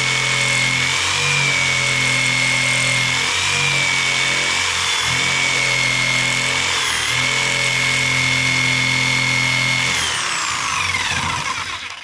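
Electric jigsaw cutting a thick wooden beam with a steady high motor whine, going hard and barely advancing. About ten seconds in it is switched off, and its whine falls away as the motor spins down.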